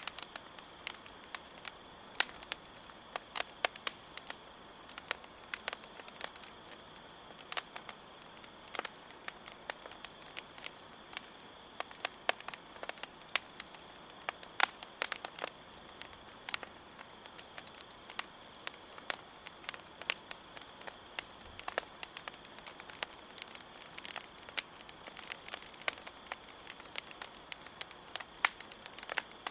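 Campfire crackling, with many irregular sharp pops and snaps, over a steady high chirring of crickets.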